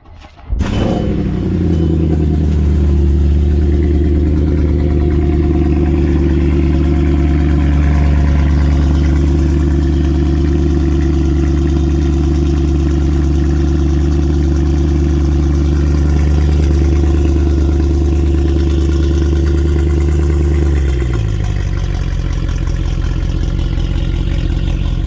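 Mercedes E63 AMG V8 starting from cold: it catches about half a second in with a short rev, then holds a steady high fast idle. After about twenty seconds the idle steps down to a lower, steady note.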